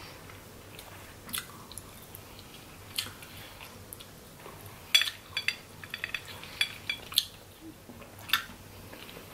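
Close-miked eating of crab legs: scattered sharp clicks and cracks with wet chewing, a quick cluster of them from about five to seven seconds in.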